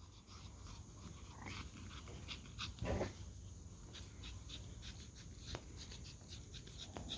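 Pomeranian dogs panting faintly after barking, with small scattered ticks and one short, soft, muffled sound about three seconds in.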